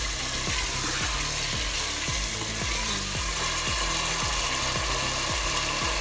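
Mutton pieces sizzling as they fry in oil and spice masala over a high flame in a pressure cooker, stirred and turned with a wooden spatula.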